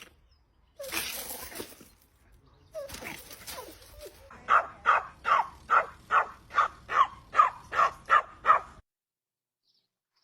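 Dog barking in a quick, steady run of about eleven barks, roughly two and a half a second, that starts about four seconds in after two shorter noisy sounds and cuts off suddenly.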